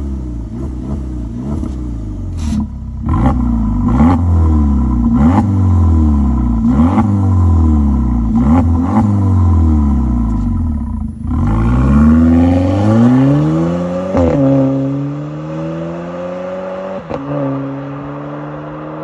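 Volkswagen Tiguan engine heard through a newly made custom exhaust system, revved in a string of short blips that rise and fall about once a second or so. About eleven seconds in, it is revved up in one long rise and held at raised revs, edging slowly higher to the end.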